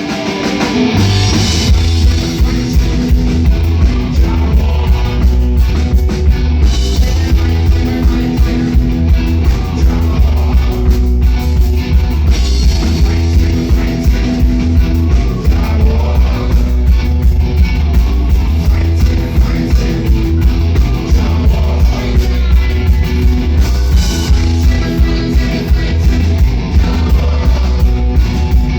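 Live rock band playing a reggae-style song, with electric guitar, drum kit and a heavy bass line that comes in about a second in.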